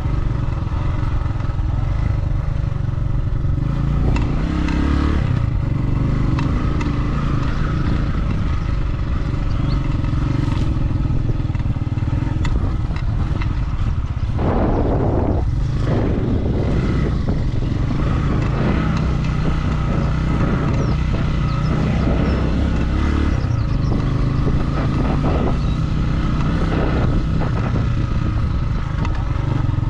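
Motorcycle being ridden at a steady pace, its engine running evenly throughout, with a burst of rattling noise about halfway through.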